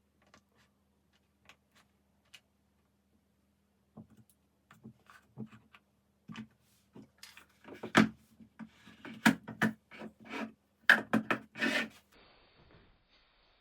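Wooden puzzle pieces being handled, knocking and rubbing against each other in irregular strokes that grow louder partway through, then a faint steady hiss near the end.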